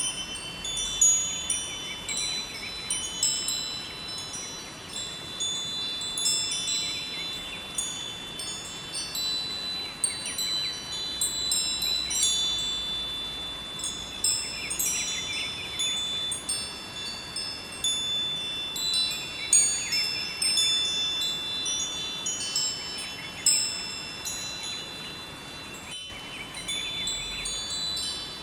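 Wind chimes ringing, many high tones struck in irregular clusters and overlapping as they fade. Under them runs a steady rush of flowing river water.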